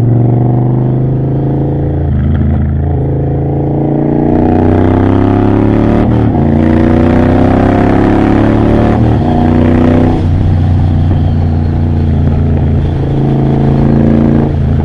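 Triumph Bobber's 1200 cc parallel-twin engine, running through a Motone Mayhem X-pipe exhaust with next to no silencing, accelerating hard under way. The exhaust note climbs in pitch through the gears, breaking briefly at each shift, with wind rush building as the speed rises, then settles to a steadier, lower note near the end.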